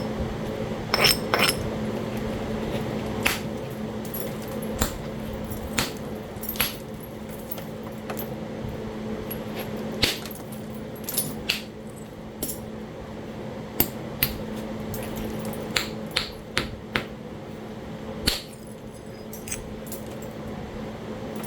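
Talahata quartzite being knapped: sharp, irregular clicks and taps of percussion on the stone, about one a second. An electric fan hums steadily underneath.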